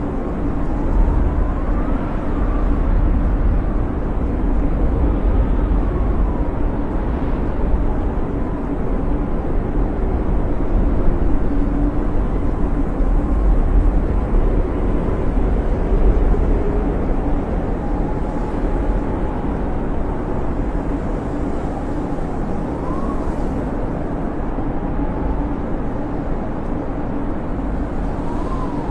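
Snowstorm wind blowing hard and steadily with a deep rumble, and a thin whistling howl that rises and falls every few seconds.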